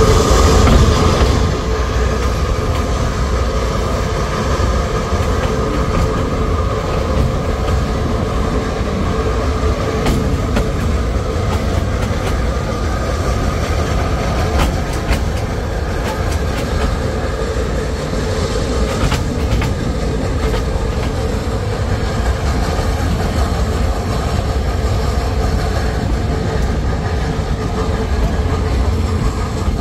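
Narrow-gauge forestry steam train rolling along the track: a steady low rumble of the wagons with the clatter of wheels over the rails, and a faint steady tone running through it.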